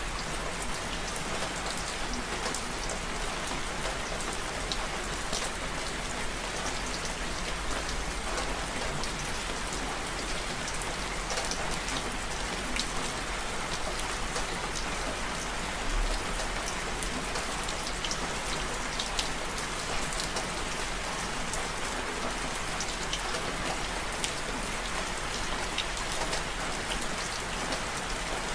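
Steady rain falling, mixed with a fireplace fire, with many scattered sharp ticks throughout.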